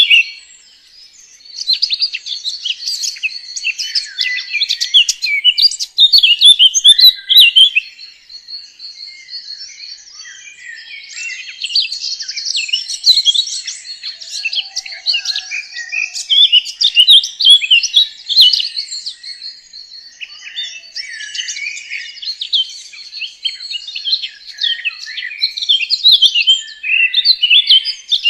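Songbirds singing, a dense chorus of quick, overlapping high chirps and trills that carries on without a break.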